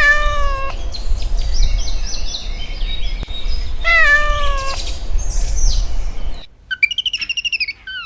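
A cat meowing twice, about four seconds apart, over small birds chirping and a low rumble. Near the end a bird gives a quick, fast-repeating trill.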